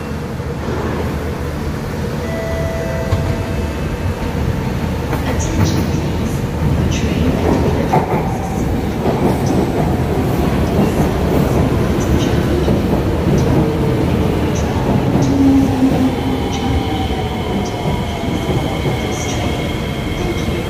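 SMRT C151A electric metro train pulling into the platform and slowing: a steady rumble of wheels on rail with scattered clicks and brief squeals, and a falling whine with steady high tones near the end as it slows.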